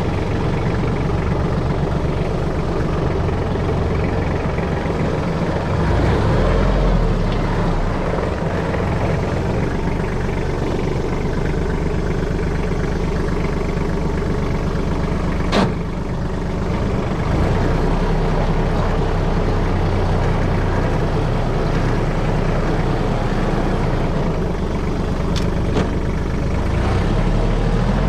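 Kubota KT215 tractor's diesel engine running steadily under the driver, its engine note shifting a few times as the tractor is driven. A single sharp click about halfway through.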